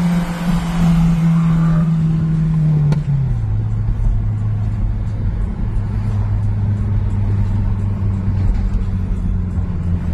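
Car engine and exhaust drone heard from inside the cabin of a moving car. The drone is steady, then drops to a lower pitch about three seconds in, with a click, and holds there while the car cruises.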